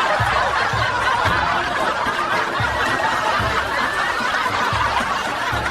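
A crowd laughing together: a dense, steady wash of many people chuckling and snickering at once.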